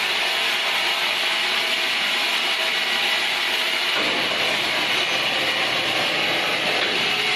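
Steady machinery noise with a strong hiss high up and faint tones beneath, changing character about four seconds in.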